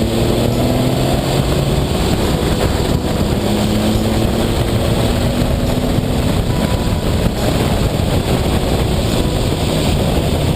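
Ferrari 375 MM's V12 engine pulling hard at speed, rising in pitch at the start, with heavy wind rush on the microphone.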